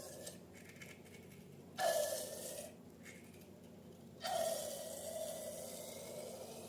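Air hissing out of a balloon in three bursts, a short one at the start, another about two seconds in, and a longer one of nearly three seconds from about four seconds in.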